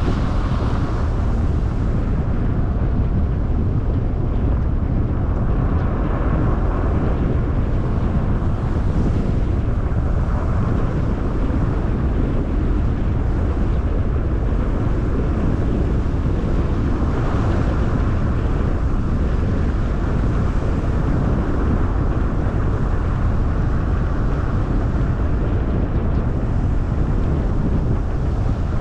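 Car driving at a steady pace: a constant low rumble of tyres, engine and air, with a lighter hiss that swells and fades every few seconds.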